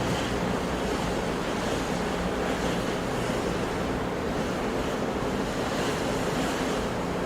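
Ocean waves and surf washing steadily, with soft swells of spray every second or two.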